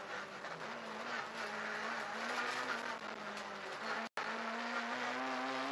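Opel Corsa KIT rally car's engine heard from inside the cabin, working through a right hairpin and then accelerating, its pitch climbing near the end. The sound cuts out for an instant about four seconds in.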